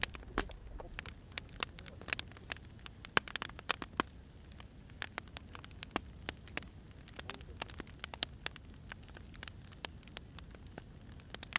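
Firewood burning, crackling with irregular sharp pops, several a second, over a faint steady low rumble.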